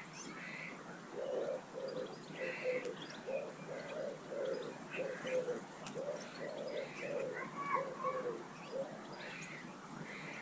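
A pigeon cooing in a long run of low, repeated notes from about a second in until near the end, with short high chirps of small garden birds over it.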